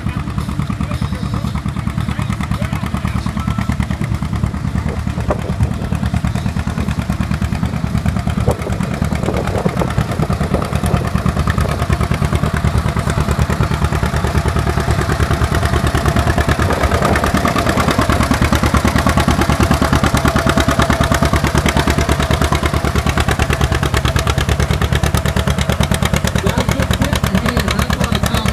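John Deere A tractor's two-cylinder engine working hard under load while pulling a weight-transfer sled, with a rapid, even popping exhaust beat. It grows louder from about the middle.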